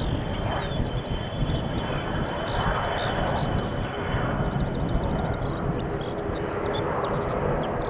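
Jet airliner engines giving a broad rush with a thin steady whine that ends about six seconds in, over a low wind rumble on the microphone. Small birds chirp and trill throughout.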